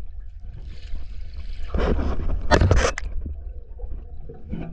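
Water sloshing and gurgling around the camera's microphone over a low rumble, with a louder splash about two seconds in.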